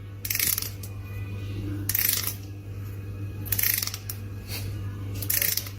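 Four short, hissy scraping noises, evenly spaced about one and a half seconds apart, over a steady low hum.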